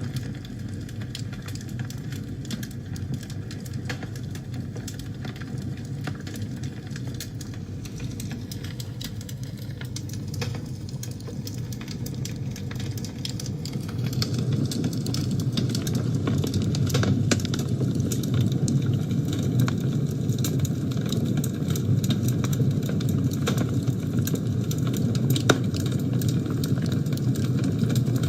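Wood fire burning in a fireplace: a steady low rumble of flame with frequent small crackles and pops, growing somewhat louder about halfway through.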